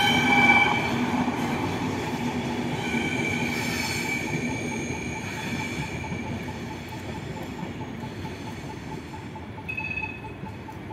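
A train running over a viaduct and moving away. A high wheel squeal fades out in the first second, and the rumble of the wheels slowly dies down.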